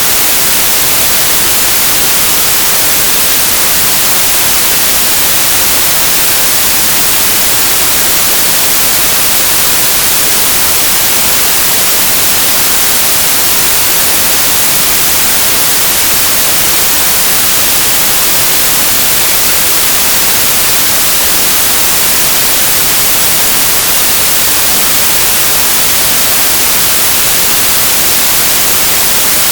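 Synthesised white noise: a steady, loud, even hiss with a flat spectrum, bright and unchanging.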